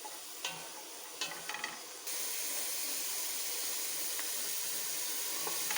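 Chopped onions sautéing in olive oil in a pan: a few scrapes of the stirring spoon, then about two seconds in a steady sizzle sets in.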